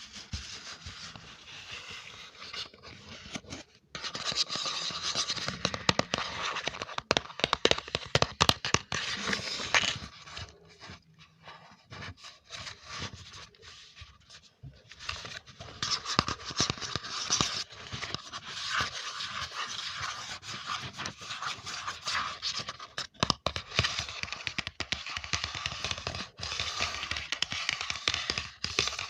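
Close-miked ASMR scratching and scraping on a surface, in dense crackly runs with a short break near four seconds and a quieter stretch in the middle.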